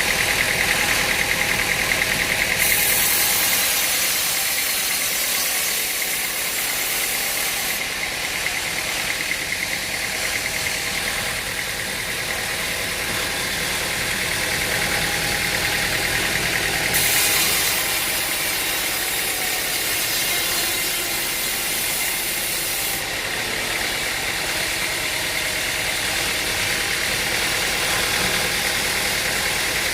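Engine running steadily. Twice, for several seconds each, a loud high hiss joins it, the kind heard when a saw or cutter is biting into wood.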